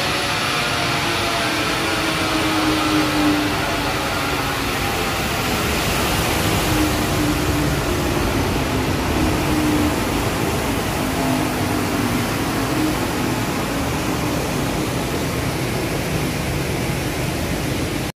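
Isuzu MU-X's 2.5-litre four-cylinder turbodiesel running on a chassis dynamometer, under a loud, steady rush of noise. The engine note falls over the first few seconds and then holds steady. The sound cuts off abruptly near the end.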